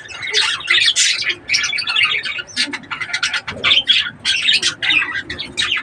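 Budgerigars chattering: a rapid, continuous run of chirps and squawks.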